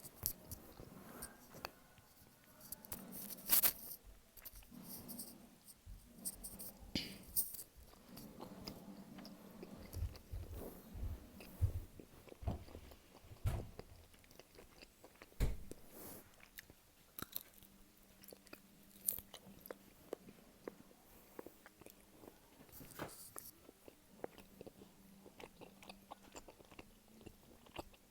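Close-miked chewing of a pepperette, a dried meat snack stick: irregular bites and moist mouth clicks, with several louder bites scattered through.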